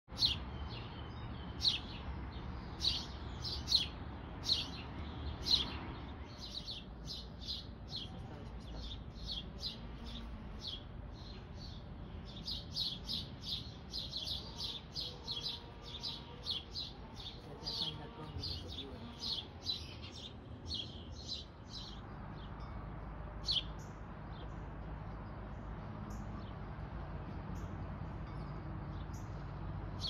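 Small birds chirping over and over in short, high chirps. They come thick and fast for most of the stretch, then thin out to a few scattered chirps near the end.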